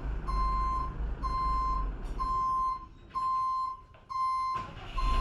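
Vehicle back-up alarm beeping steadily about once a second, over a low engine rumble.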